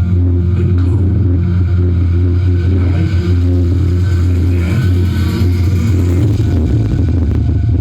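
Very loud, bass-heavy dance music from a huge stacked outdoor sound system, the deep bass overloading the recording into a steady distorted drone.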